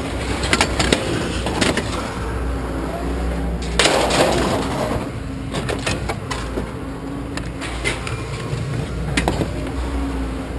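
Scrap metal pieces clanking and clattering as they are handled and dropped: scattered sharp knocks, with a louder, longer clatter about four seconds in, over a steady low hum.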